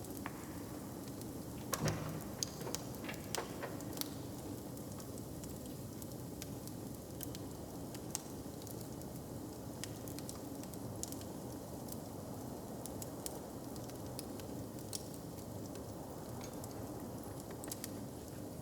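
Open wood fire crackling, with scattered pops and snaps over a steady low rumble. A few louder cracks come about two seconds in.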